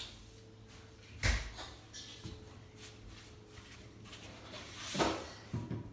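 Die-cast toy cars knocking against a toy race track: one sharp knock a little over a second in, a second sharp knock near the end after a brief rushing sound, then a few lighter clicks.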